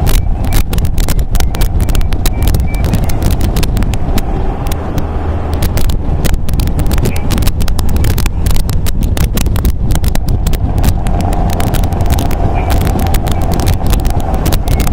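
Sound of an MGA roadster's four-cylinder engine running steadily on the move, with many short crackles of wind buffeting the microphone.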